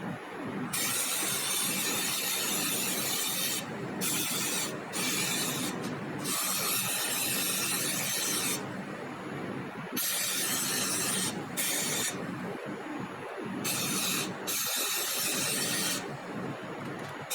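Compressed air hissing from an air tool in repeated bursts, each lasting from about half a second to three seconds, with short breaks between them, over a steady lower background noise.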